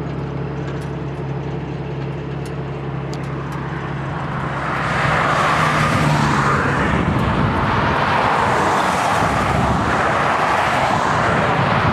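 A vehicle engine running with a steady low hum; about five seconds in a louder rushing noise rises and holds, like a vehicle passing close on the road.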